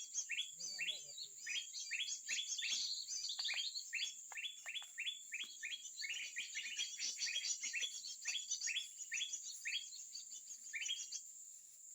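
Bird song of rapid, short rising chirps, several a second, over a steady high insect drone; the chirping stops about eleven seconds in.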